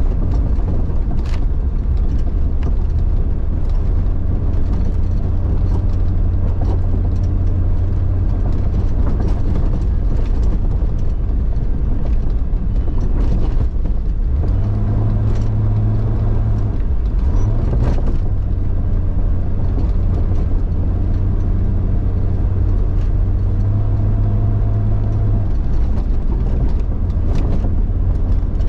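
1999 Jeep Cherokee XJ engine running steadily while the Jeep is driven off-road, its pitch stepping up twice as it is revved, about halfway through and again near the end. A few sharp knocks and clunks come through, one near the start and one just past the middle.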